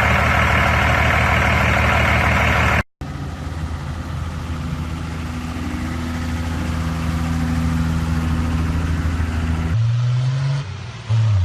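Diesel truck engines in three clips cut together: a loud, rough engine first, an abrupt cut to a steadier low engine note that slowly grows louder, then another cut near the end to an engine revving up and down.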